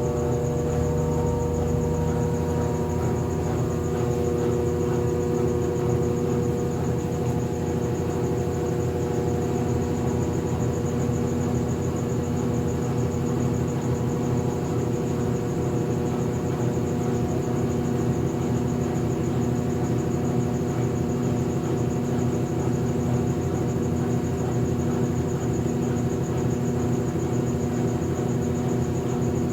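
Consul Facilite 8 kg top-loading washing machine running fully loaded: a steady motor hum with a fast low flutter and a faint high whine over it.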